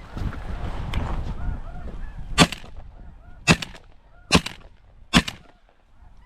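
Snow geese honking over decoys, with a rough rushing noise for the first two seconds. Then four shotgun shots ring out about a second apart, the loudest sounds here.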